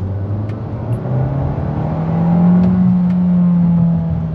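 Kia Seltos's turbocharged 1.6-litre four-cylinder engine heard from inside the cabin while driving, its note rising in pitch about a second in as the SUV accelerates, then holding steady.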